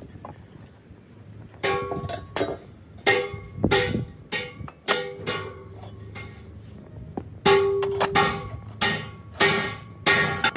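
Hammer blows on metal, about a dozen strikes at an uneven pace beginning a couple of seconds in, each ringing briefly with a clear metallic tone.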